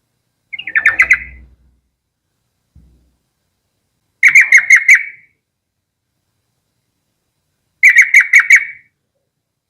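Yellow-vented bulbul singing: three short phrases of rapid repeated notes, each about a second long, a few seconds apart.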